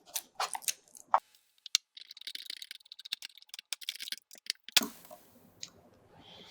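Small plastic drone parts being handled: a few sharp clicks, then a run of fine clicking and rattling for about three seconds.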